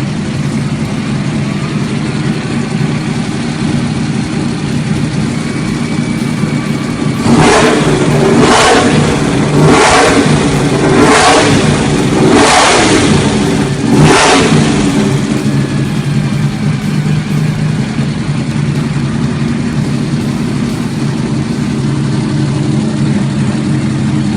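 Naturally aspirated VW AP four-cylinder drag-race engine with a cross-plane crankshaft, idling steadily. A third of the way in it is blipped sharply six times in a row, a little over a second apart, then settles back to idle.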